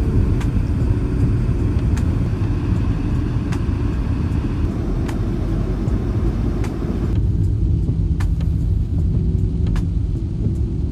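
Steady low rumble of a car in motion, road and engine noise heard from inside, with a few faint clicks.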